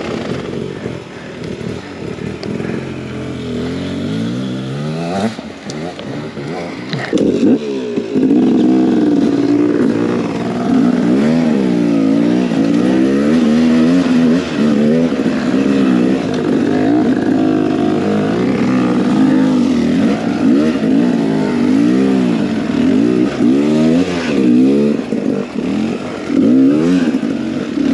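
A Beta 300 RR two-stroke enduro motorcycle engine, its revs rising and falling again and again under throttle. It is quieter for the first several seconds, then louder from about a third of the way in, with quick revs up and back down in close succession.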